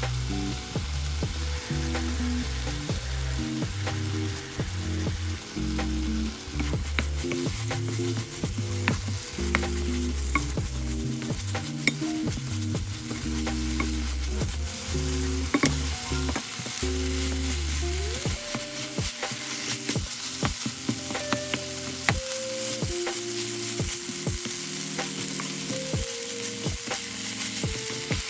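Kimchi and tuna sizzling as they fry in a hot pan, with the seasoning sauce bubbling in the pan. A spatula stirs the food, scraping and tapping against the pan in many short clicks.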